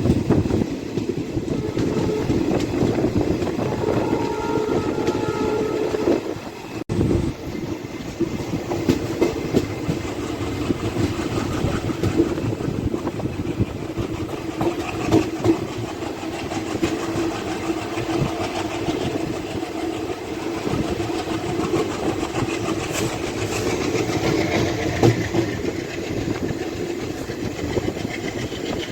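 DEMU passenger train running on the rails, a steady rumble with the wheels clicking over the rail joints.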